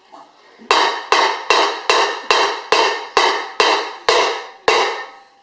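A baby banging a hard object on a hard surface: about ten sharp knocks, a little over two a second, each ringing briefly.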